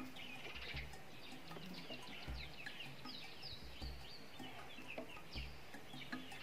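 Birds chirping: a quick, irregular stream of short, high, downward-sliding chirps. A low, regular pulse comes about every second and a half underneath.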